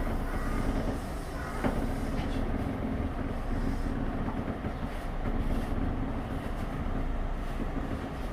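A Tobu Railway train running at the station, a steady rumble with a sharp click about a second and a half in.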